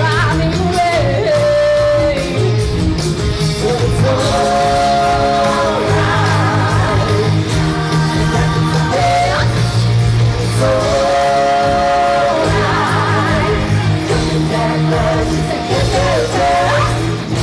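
Rock song with a singer holding long, wavering notes over guitar and a steady bass line.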